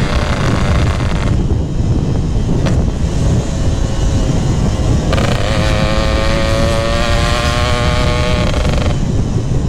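Two-stroke Yamaha RX-King engine through a GRT18 aftermarket exhaust, heard while riding with heavy wind on the microphone. Its note drops out about a second in, then comes back about five seconds in, rising in pitch as it pulls, and falls away near the end.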